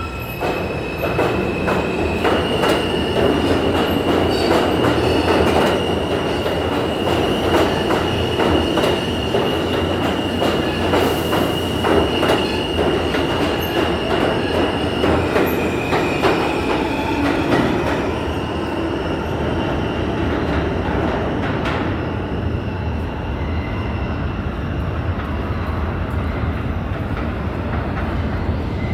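New York City subway train rolling along the track, with a dense rumble and repeated clicks of the wheels over rail joints. A steady high-pitched wheel squeal runs for about the first half, shifts lower for a moment, then fades, leaving the rumble.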